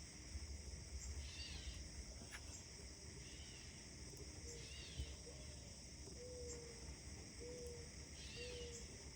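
Outdoor morning chorus: a steady high insect-like hiss, with a bird repeating a short chirping call about every second. In the second half a few short, low held notes sound, four times, over a faint low rumble.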